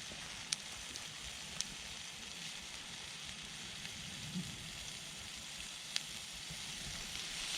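Pork fat (salo) sizzling in a frying pan over a log fire: a steady hiss with a few sharp pops.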